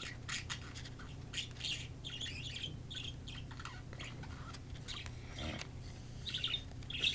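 Pet birds chirping to each other in short, scattered calls.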